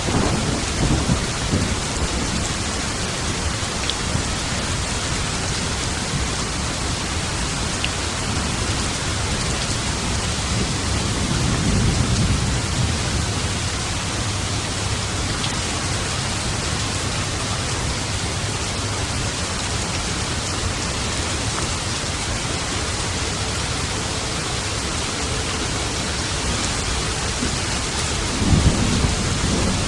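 Steady, heavy rain in a thunderstorm, with low rolls of thunder rumbling about a second in, again around the middle, and near the end.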